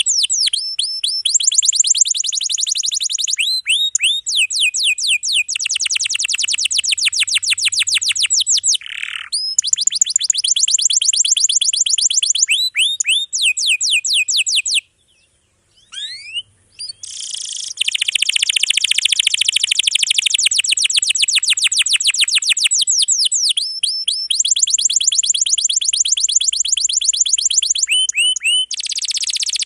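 Domestic canary singing long rolls: runs of fast, closely repeated sweeping notes, with a brief pause about halfway before the song resumes.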